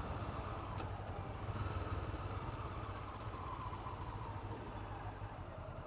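2017 Honda CB500F's parallel-twin engine running steadily at low revs, a low pulsing rumble with no revving.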